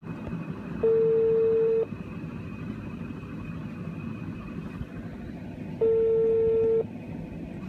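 Telephone ringback tone heard by the caller while the call rings out: two steady one-second beeps about five seconds apart, over a low background hiss.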